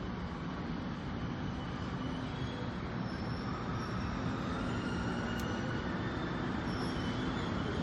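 Korail 7600-series diesel locomotive running with a train, a steady engine rumble that grows slightly louder, with faint thin wheel-squeal tones in the second half.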